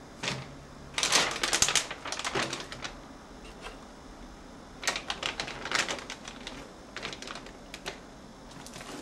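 Motherboard packaging being handled as the board is worked out of its box, with quick runs of crackling and clicks in several bursts.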